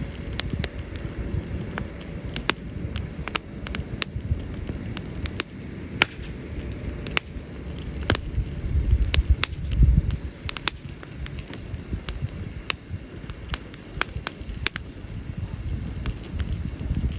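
Wood campfire crackling, with sharp pops at irregular intervals, several a second. Underneath is a steady low rumble that swells about halfway through.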